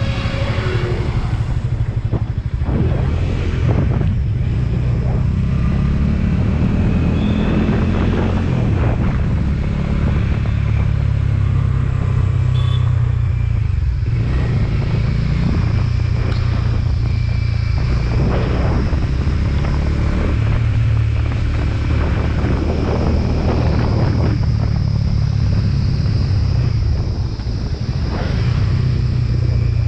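Motorcycle engine running steadily while riding, with repeated gusts of wind noise on the microphone.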